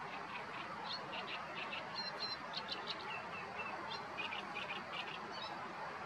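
Short, high bird chirps in several quick runs of a few notes each, over a steady background hiss.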